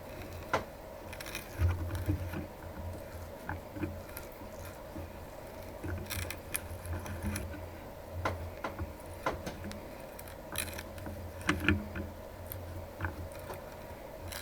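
Hand tap being worked into a steel block with a tap wrench: irregular metallic clicks, creaks and rattles over a steady low shop hum.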